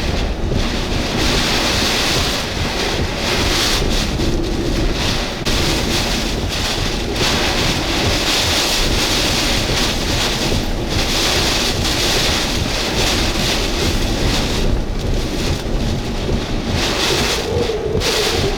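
Hurricane-force wind from Hurricane Beryl buffeting a vehicle and blasting the microphone: a heavy rumble with a hiss that surges and drops in gusts every second or two.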